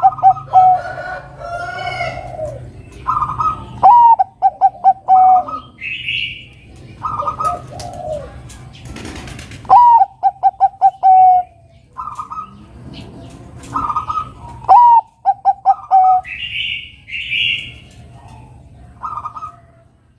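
Bangkok-strain zebra dove (perkutut) singing its cooing song over and over. Each phrase is a clear opening note followed by a quick run of short staccato notes, repeated about every five seconds, with shorter higher calls in between.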